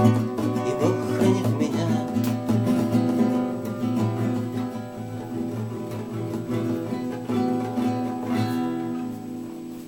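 Acoustic guitar strumming the closing chords of a song, the chords ringing on and slowly growing quieter toward the end.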